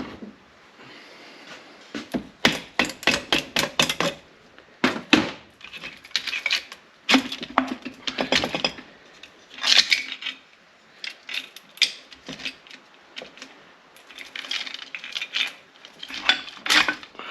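Hand tools clinking and knocking against the metal parts of a KTM 690 Duke single-cylinder engine while the cylinder is worked free. The sharp metallic strikes come irregularly and in clusters from about two seconds in.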